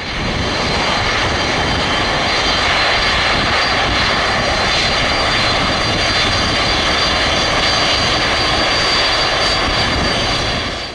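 Jet airliner's engines running loud and steady with a thin high whine over the rush of noise, as a plane passes close.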